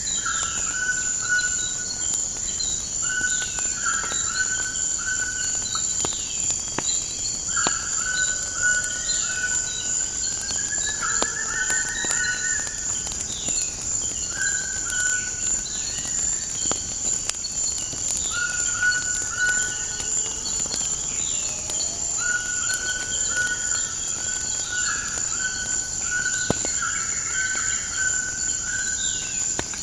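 Ambience of a steady high insect drone, like crickets, with birds calling over it: repeated clear, level whistled notes and many quick chirps. A few scattered sharp crackles, like a wood fire, sound now and then.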